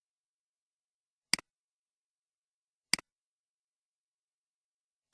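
Computer mouse clicking three times, about one and a half seconds apart. Each is a sharp click followed at once by a softer one, the button's press and release, against silence.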